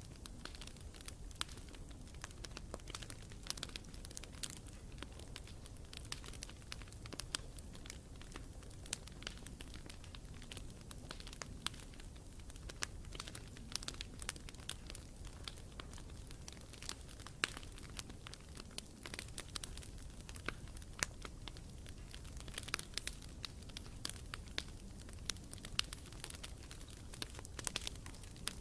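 Campfire burning steadily, the wood crackling and popping in frequent irregular snaps over a low rumble of the flames.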